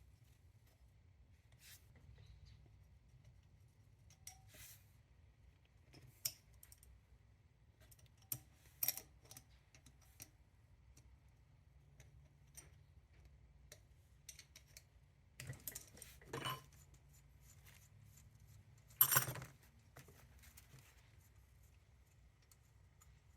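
Scattered small metallic clicks and clinks of hand tools and small parts being handled, with a short clatter near the end as the loudest sound, over a faint low hum.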